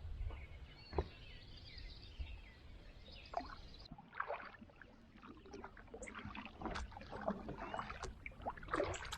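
Kayak paddle strokes in the water, with soft splashes and drips in the second half. Faint bird calls over a low rumble come in the first few seconds.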